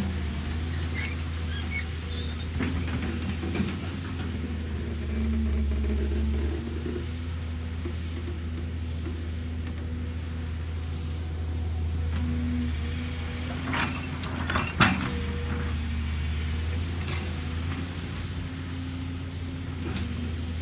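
Excavator's diesel engine running steadily, with a few short metallic knocks from the machine a little past the middle.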